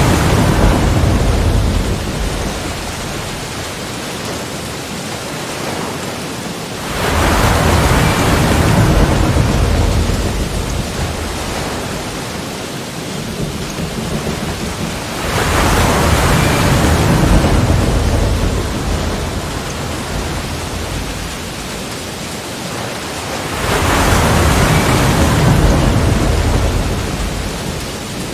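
Sea waves breaking and washing in, four times, each surge swelling to a loud rumble and hiss and then fading, about every eight seconds.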